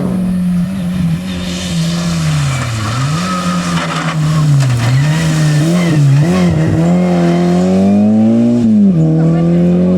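Rally car engine worked hard through a series of bends: the revs dip and pick up again several times as the driver lifts and gets back on the throttle, then climb steadily and fall sharply at an upshift about nine seconds in before rising again.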